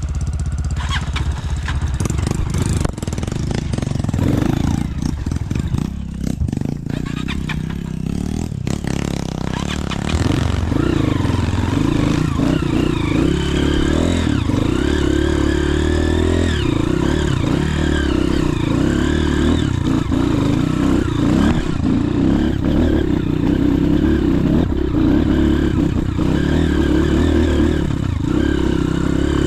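Motorcycle engine revving under load as it climbs a muddy slope. There are knocks and clatter over the first several seconds, then from about ten seconds in the engine runs hard and steady.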